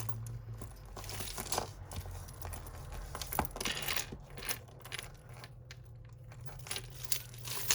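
Costume jewellery chains and beads clinking and rattling in irregular small clicks as a tangled bag of jewellery is handled and picked apart, over a low steady hum.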